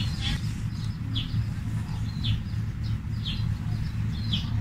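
A bird calling with short, falling high chirps, about once a second, five in all, over a steady low hum.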